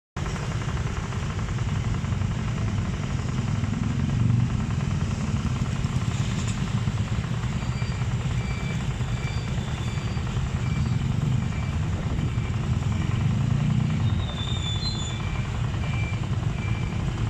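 Steady low rumble of a train and traffic at a railway level crossing, swelling twice, with faint short high beeps repeating about every 0.7 s through the middle. The crossing's warning siren is broken.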